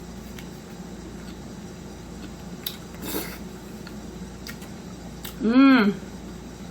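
Quiet eating: faint clicks and a soft mouth noise over a steady room hum, then one short pitched vocal sound from the eater, like a hummed "mm", about five and a half seconds in.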